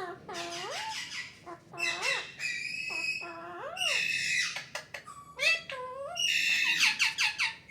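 Pet parrot calling: a string of squawks and rising-and-falling whistled calls in quick succession, with a rapid harsh chatter near the end.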